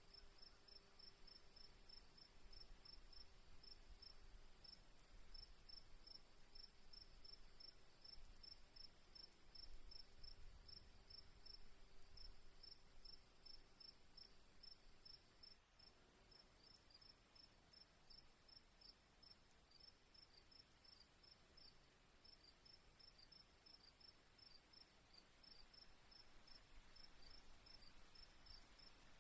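Crickets chirping faintly: one holds a continuous high trill while another chirps in a quick, even rhythm of about four chirps a second.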